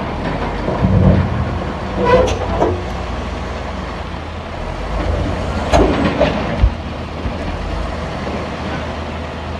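Heavy diesel machinery running with a steady low rumble, broken by several sharp metal clanks and knocks.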